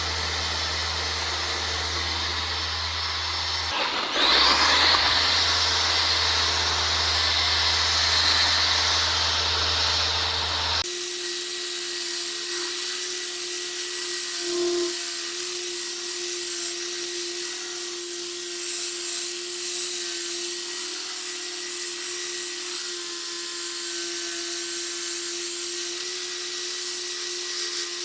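Workshop power tool running steadily with a hissing, vacuum-like whir that gets louder about four seconds in. It changes abruptly about eleven seconds in to a steadier, thinner motor whine.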